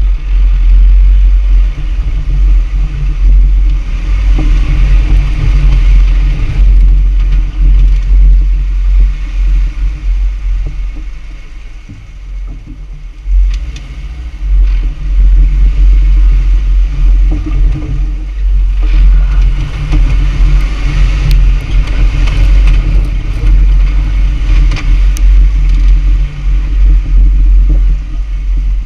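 Jeep Wrangler Rubicon driving on a dirt trail: a loud, steady low rumble from the engine and tyres, with occasional clatter. It eases briefly about twelve seconds in.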